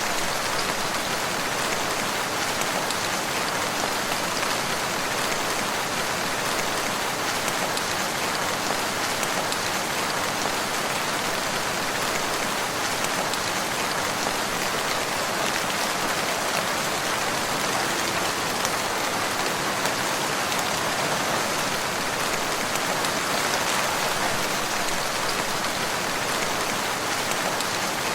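Steady rain falling, an even hiss of many drops with no thunder or breaks.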